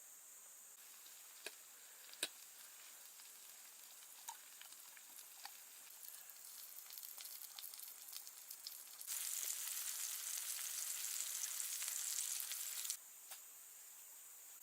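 Food frying in a hot pan: scattered crackles build into a loud steady sizzle for about four seconds, which cuts off suddenly.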